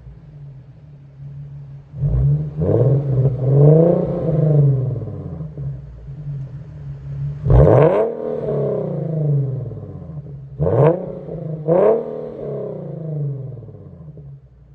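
Infiniti Q50's VQ37VHR 3.7 L V6, exhaust run with a muffler delete, idling and blipped up by hand about six times, each rev climbing and falling back to idle; the biggest is about halfway through, followed by two quick sharp ones.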